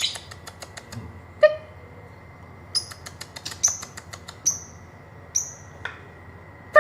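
Lovebird calling: a quick run of dry ticking clicks in the first second, then single short, sharp chirps about once a second. This is the ticking 'ngetik' call, played as a bait recording to set other lovebirds singing.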